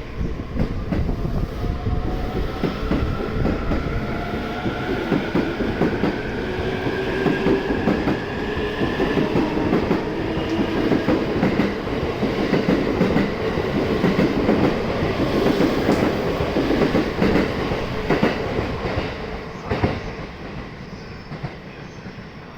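Electric limited express train pulling out and accelerating, its motor whine rising in pitch over the first several seconds. Wheels rumble and clack over rail joints as it passes, and the sound fades near the end.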